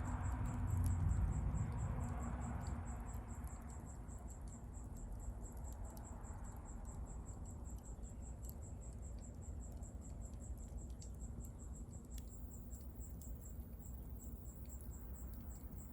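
Wood bonfire crackling with scattered sharp pops and ticks over a low rush of burning that swells in the first few seconds, then settles. Crickets chirp steadily and quickly in the background.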